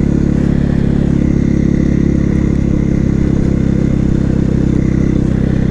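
KTM 450 SMR supermoto's single-cylinder four-stroke engine running at steady revs while riding, its pitch holding even.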